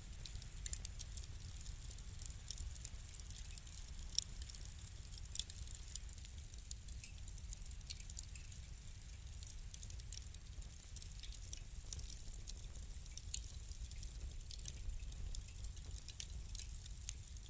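Wood fire crackling: frequent small sharp pops and snaps over a low steady rumble of the flames, with a louder pop about four seconds in.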